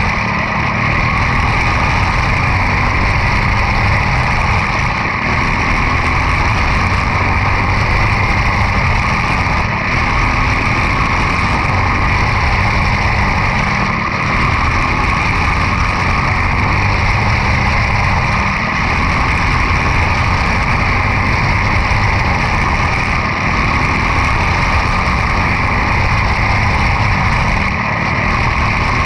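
Quarter midget race car's single-cylinder Briggs & Stratton Animal engine running hard and steady on track, with a brief dip about every four to five seconds.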